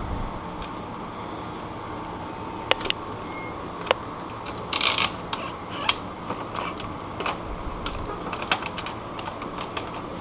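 Irregular sharp clicks and knocks of bike parts and hand tools being worked, with a short louder scraping rustle about five seconds in.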